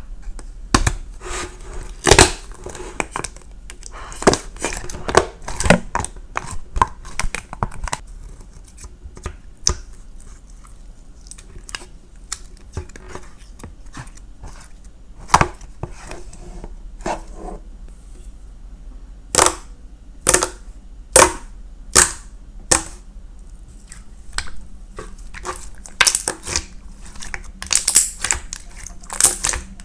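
Irregular sharp taps and knocks at an uneven pace, some single and some in quick clusters, over a faint low hum.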